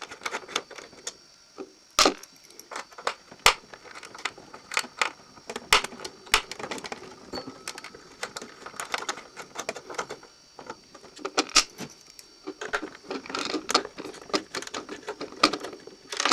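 Irregular small metallic clicks and clinks, with a few sharper knocks, of the small hexagon nuts being undone by hand tool from the plate over a Bell & Howell 8mm projector's clutch drive.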